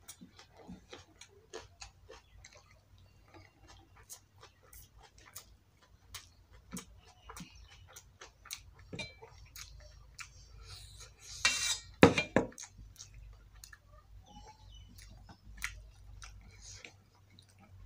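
Close-up eating sounds: wet chewing and mouth clicks while rice and fish curry are mixed and eaten by hand from a steel plate. About twelve seconds in there is one louder clatter against the steel plate.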